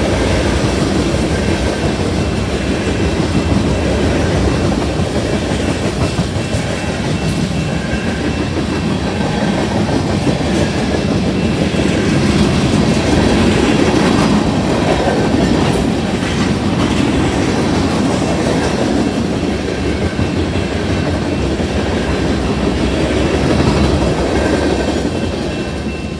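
Freight cars of a mixed freight train rolling past over a grade crossing: a loud, steady rumble with wheels clacking over the rail joints, easing off near the end as the last car clears. The crossing's electronic bell (a GS Type 2 E-Bell) rings faintly underneath.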